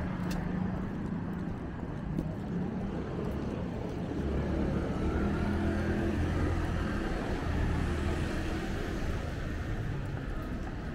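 City street traffic: a motor vehicle's engine running close by with a steady low hum, loudest from about four to nine seconds in.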